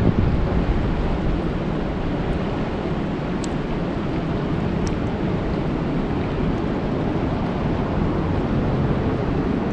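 Steady rain falling on a lake: a dense, even hiss with a deep rumble underneath. There are a few faint sharp ticks about three and a half and five seconds in.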